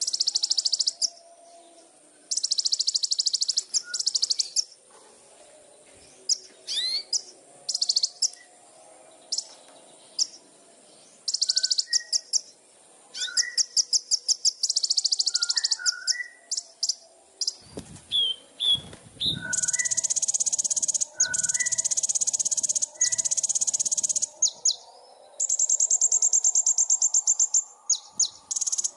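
A small songbird singing in repeated bursts of very rapid, high trills, each up to about a second and a half long, with short whistled notes in between. This is the kind of song played as a masteran (song-tutoring) recording for cage birds.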